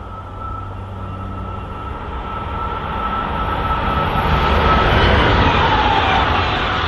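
SBB passenger train approaching at speed: the rushing noise of wheels and running gear grows steadily louder, with a faint whine that drops in pitch in the second half.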